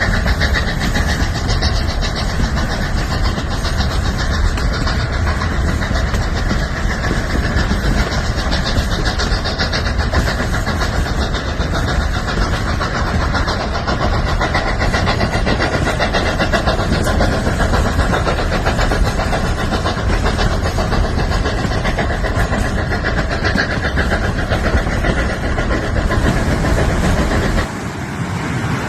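Steady running noise of the Durango & Silverton narrow-gauge train heard from aboard, dipping briefly near the end.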